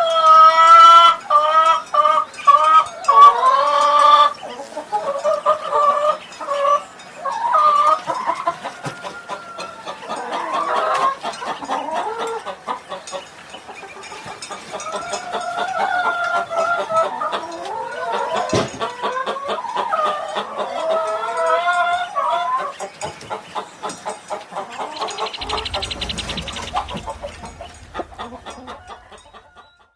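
Chickens clucking and calling: a run of short pitched calls, loudest in the first few seconds, with the calls fading out near the end.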